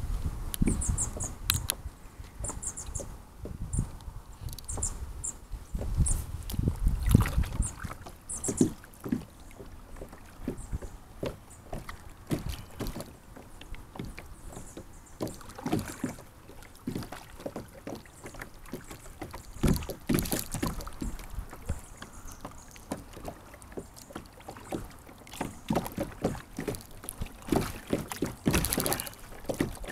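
Paddling a sit-on-top kayak: irregular splashes and drips from the paddle blades and water lapping against the hull.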